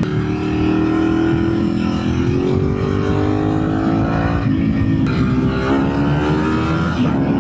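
Ducati sport bike engine pulling under throttle, its pitch climbing steadily, dropping at an upshift about four and a half seconds in, then climbing again.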